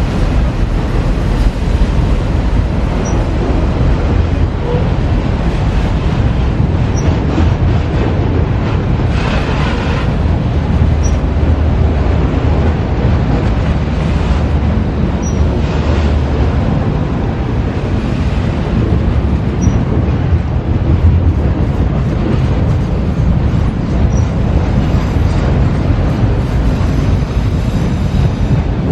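CSX freight train rolling past: a loud, steady rumble of steel wheels on rail, unbroken throughout.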